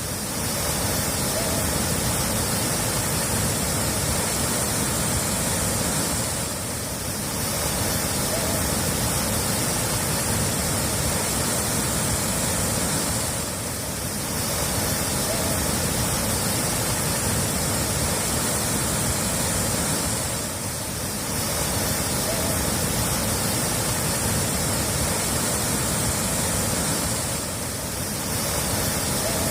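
Steady rushing water, a continuous full hiss, dipping briefly in level about every seven seconds.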